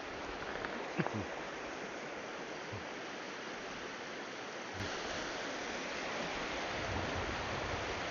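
Fast, shallow river water rushing over rocks, a steady rush that gets louder about halfway through. A brief knock sounds about a second in.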